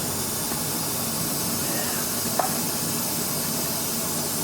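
Steady hiss of steam from a standing steam traction engine while it takes on water, with one short sharp click about two and a half seconds in.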